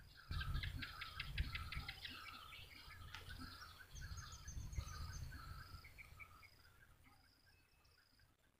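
Small birds chirping and twittering in quick repeated phrases, with a fast trill about a second in; the calls thin out and fade over the last couple of seconds, over a faint low rumble.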